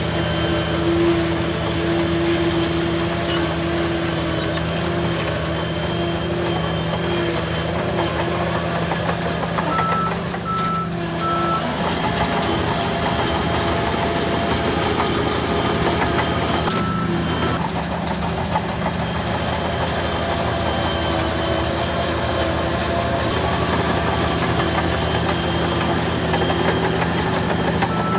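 Heavy diesel earthmoving machinery running steadily with a constant engine drone. About ten seconds in, a reversing alarm beeps three times.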